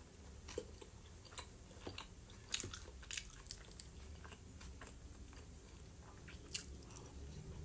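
Close-miked chewing of fried potato slices: faint, scattered wet mouth clicks and smacks, with a slightly louder click about two and a half seconds in.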